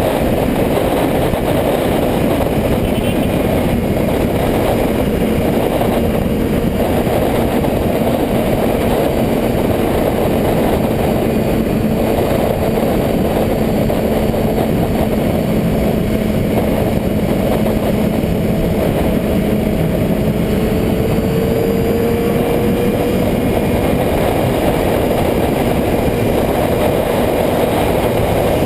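Motorcycle engine running steadily under a constant rush of noise, its faint tone drifting slowly up and down in pitch.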